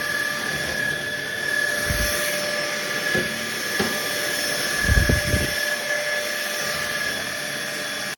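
Cordless stick vacuum motor running with a steady high whine and airflow hiss, with a few dull low bumps about two and five seconds in. It cuts off suddenly at the end.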